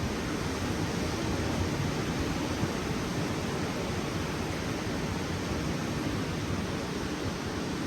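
Steady, even rushing of wind and ocean surf on a beach, deepest in the low end, with no break or change.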